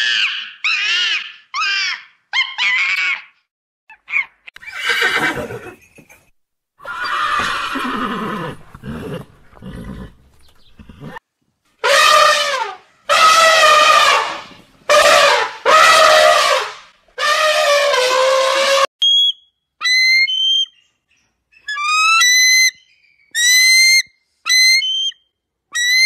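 A run of animal calls: high screeching calls of macaques first, then a series of loud elephant trumpets in the middle, then a bird of prey's short, sharp calls repeated several times near the end.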